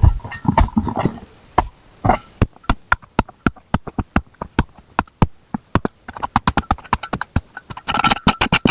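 Rapid sharp knocks of a hand tool striking frozen wood or ground: a few heavy, uneven blows, then a quick, even run of about six or seven knocks a second, some with a faint ring.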